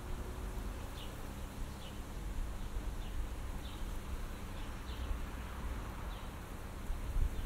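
Outdoor morning ambience: small birds give short, high chirps every second or so over a steady low rumble of wind.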